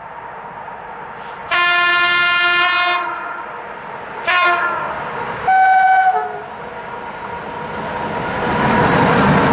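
Horn of an EA1-class electric locomotive: a long blast of about a second and a half, a short blast that falls in pitch, then a third short blast. The train's running noise then grows steadily louder as it comes near.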